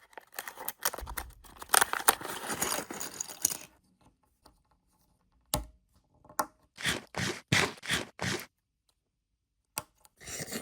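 A blind bag being torn open and crinkled: a long tearing rustle, then a sharp click and a quick run of short rips or crinkles.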